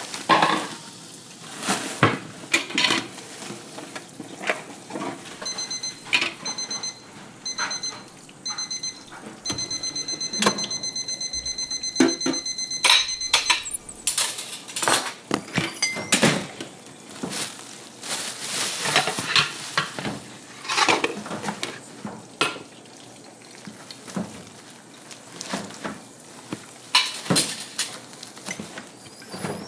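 Repeated clinks and clatters of hard objects being handled, with an electronic beeper sounding in short groups from about six seconds in, then beeping rapidly without a break until about fourteen seconds in.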